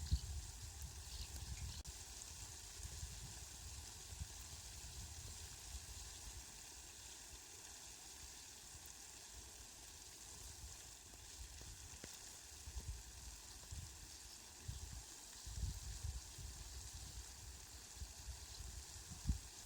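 Steady, faint hiss of falling rain, with low rumbling at the start and again in the second half.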